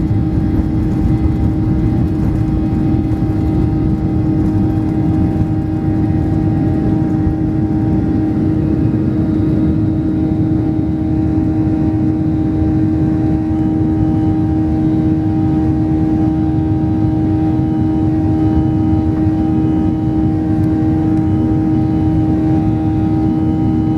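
Cabin noise of a Boeing 737-800 with its CFM56 jet engines running at low power: a steady rumble with a constant hum-like tone over it.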